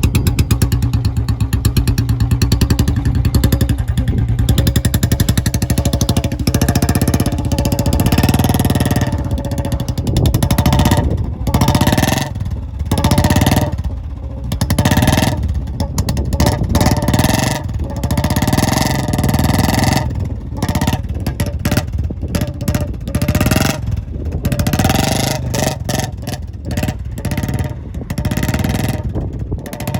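Royal Enfield Bullet 350's single-cylinder engine running with a steady beat, then revving up and down repeatedly through the rest of the stretch.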